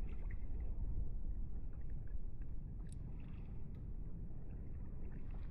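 Steady low rumble of water and wind around a fishing kayak at sea, with a few faint light clicks.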